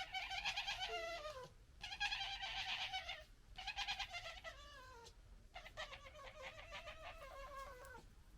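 Red foxes gekkering: stuttering, chattering calls in four bouts, each sliding down in pitch, the sound of foxes squabbling.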